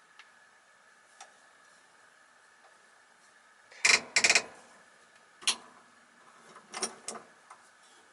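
Sharp metal clicks and clanks from working a bearing puller to draw a bearing off a vacuum cleaner motor's shaft: a loud cluster about four seconds in, a single clank a little later, then a few quieter ones near the end.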